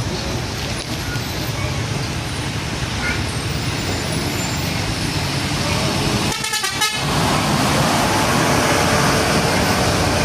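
Heavy road traffic with large diesel trucks passing, a steady loud roar of engines and tyres. It breaks off briefly about two-thirds of the way in and comes back louder.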